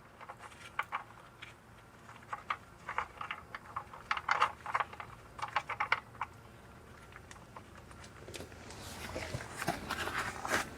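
Light irregular clicks and taps of hand tools and small metal parts being handled, then scraping and shuffling movement that grows louder near the end.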